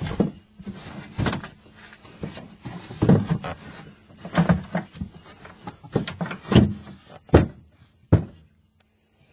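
Irregular knocks, bumps and scraping as a boat's portable fuel tank and a bottle of oil are handled and slid in and out of a tight storage compartment under the side deck.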